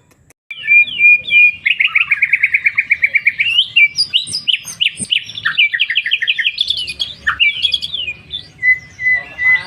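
White-rumped shama (murai batu) singing a loud, varied song from about half a second in: long runs of rapid repeated notes and sweeping whistles, with a held whistle near the end, in which it works in the sikatan londo's call it has learned to imitate.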